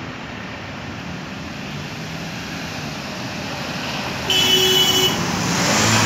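Road traffic running steadily. A vehicle horn sounds once, briefly, a little past the middle. Near the end a louder vehicle comes close.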